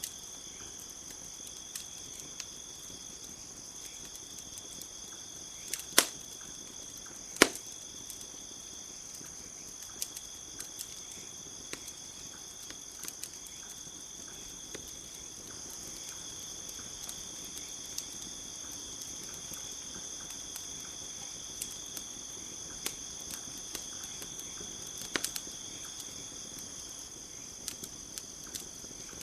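Campfire crackling, with scattered small clicks and a few sharp loud pops about six and seven and a half seconds in and again near the end, over a steady high chirring of insects.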